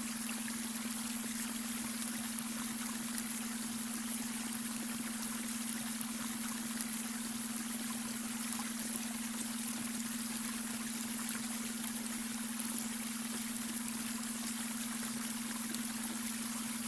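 Babbling brook running steadily, with a continuous low beta-wave brainwave tone held underneath it.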